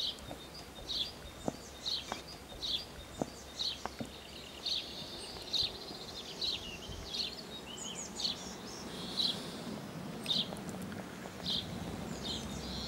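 A small songbird chirping, short high notes repeated one or two a second over steady outdoor background noise, with a few faint clicks in the first few seconds.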